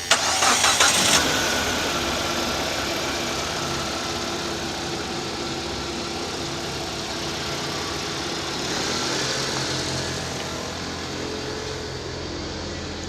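Proton Suprima S turbocharged 1.6-litre four-cylinder petrol engine cranked on the starter for about a second, catching and settling into a steady idle. It is a used engine on test, and it tested good.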